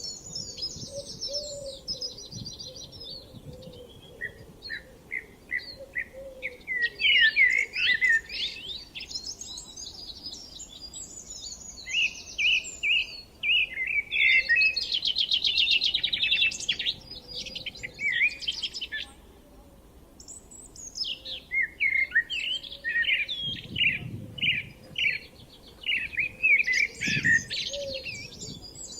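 Songbirds singing, several overlapping songs of rapid chirps and trills, with a short lull about twenty seconds in.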